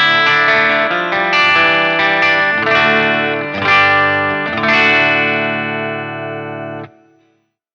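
Gibson Les Paul electric guitar played through a VS Audio BlackBird DeLuxe preamp pedal's overdrive, giving a brown-panel-style driven tone: a run of chords, the last one ringing out and then cut off sharply near the end.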